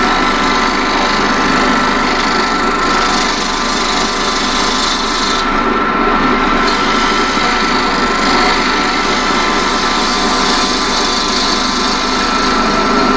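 Union Jubilee wood lathe running with a steady motor whine, under the continuous scraping of a turning tool cutting across the face of a spinning wooden bowl blank.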